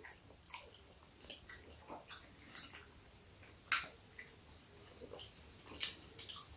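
People chewing soft cheese balls: faint, irregular moist clicks, with a couple of sharper ones about four and six seconds in.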